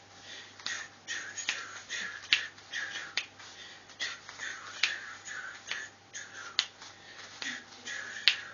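A person snapping their fingers in an uneven beat, roughly one snap a second.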